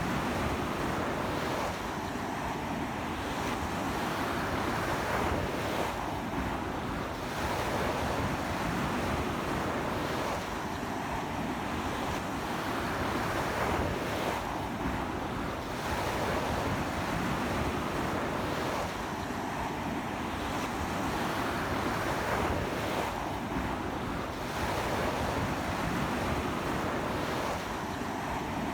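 Ocean surf breaking and washing up a beach in a strong sea wind, a continuous rush that swells and eases every few seconds, with wind buffeting the microphone.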